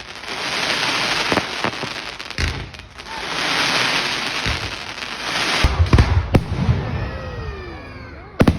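Fireworks display: two long swells of crackling, fizzing noise, then a cluster of sharp bangs about six seconds in, followed by gliding whistles and two more sharp bangs near the end.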